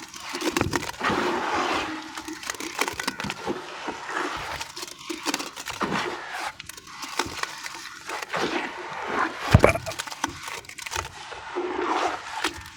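Dry sand discs with a crust of white cement crunching and crumbling: a dense, continuous crackle of small breaks, with one sharp, louder snap about nine and a half seconds in.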